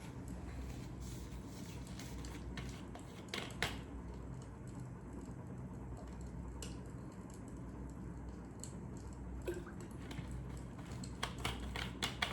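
Fire crackling: irregular snaps and pops over a low steady background, with a cluster of pops near the end.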